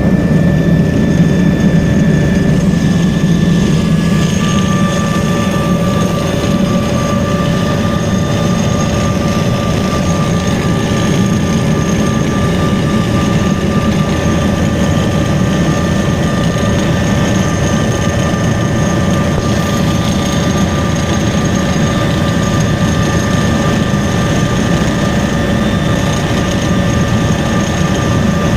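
Helicopter in flight: a steady, loud drone of engine and rotor with several thin, steady whining tones above a heavy low rumble.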